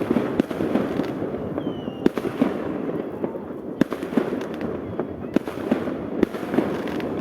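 Fireworks going off: 4–5 inch festival aerial shells bursting with sharp bangs every second or two, over a continuous crackle of many other fireworks.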